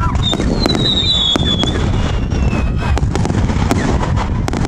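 Firework cake firing: a rapid series of sharp bangs and crackles over a constant low rumble, with a falling whistle about half a second in.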